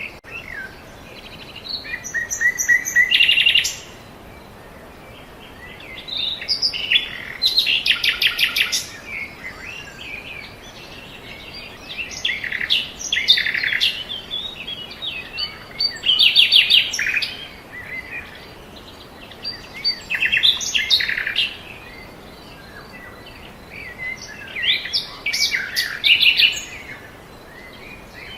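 Songbirds singing: about six short bursts of song, each made of quick high trills and chirps, coming every few seconds with quieter gaps between them.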